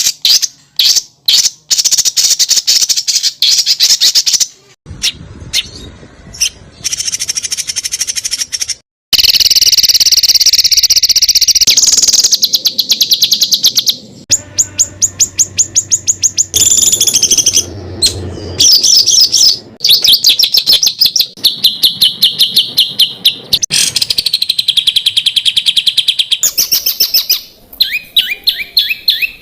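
Loud songbird song spliced from several recordings: fast runs of sharp repeated high notes and trills, jumping abruptly from one phrase to the next. This is masteran tutor material packed with rapid 'tembakan' (shot) phrases.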